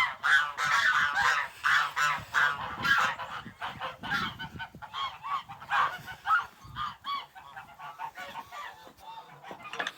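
A flock of domestic geese honking, many short calls overlapping, thickest and loudest over the first few seconds and then thinning out.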